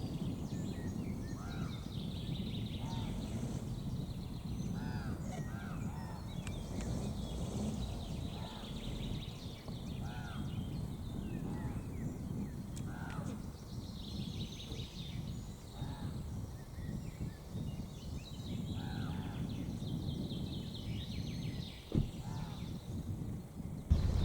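Birds calling outdoors: a short arched call repeated every second or two, with higher chirping above it, over a steady low rumble. A single sharp knock comes near the end.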